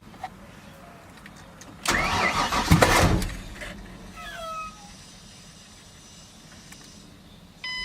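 2007 Ford Mustang's 4.0L V6 cranked on the starter for about a second and a half without staying running. This is the no-start that the owner puts down to a fuel problem. A steady electronic chime starts near the end.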